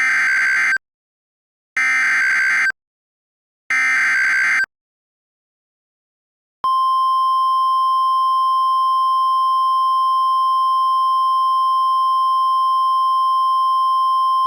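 NOAA Weather Radio alert: three short bursts of screeching SAME digital header data, each about a second long with a second of silence between, followed a couple of seconds later by the steady 1050 Hz warning alarm tone, which signals a tornado warning broadcast.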